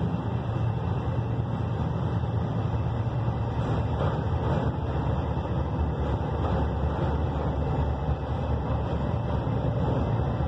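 Diesel locomotive and its train arriving at a station: a steady low engine rumble mixed with the running noise of the cars, with a few faint knocks near the middle.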